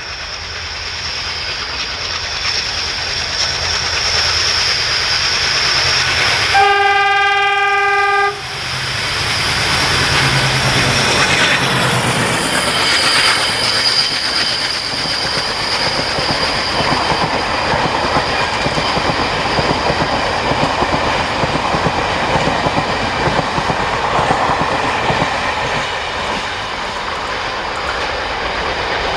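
Indian Railways diesel-hauled train approaching and passing, getting louder over the first few seconds. The diesel locomotive's horn sounds one steady blast of about two seconds, about seven seconds in, and cuts off sharply. Then the wheels clatter on the rails as the coaches go by.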